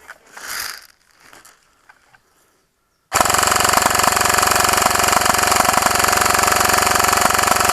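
G&P M249 MKII airsoft electric machine gun firing one long full-auto burst of about five seconds, starting abruptly about three seconds in and cutting off sharply. It is the rapid, even clatter of the gun's motor and gearbox cycling.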